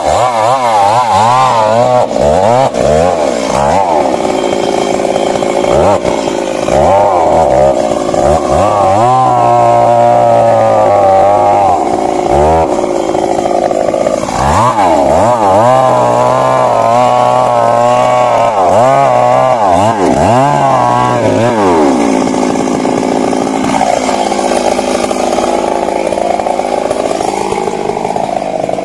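Stihl MS 382 two-stroke chainsaw running loud while cutting, its engine speed repeatedly dropping and picking back up as the chain is loaded in the wood, then holding steadier and higher for the last several seconds.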